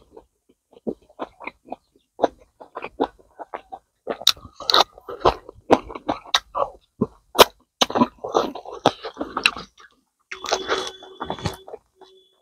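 Close-up chewing and crunching of cooked rabbit, rice and fresh raw greens, with wet mouth smacks and bites.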